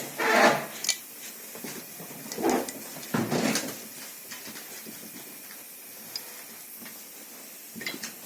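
Metal parts and tools being handled on a workbench during a brake caliper repair: a few short clinks and scrapes, the loudest near the start and around three seconds in, with small clicks in between.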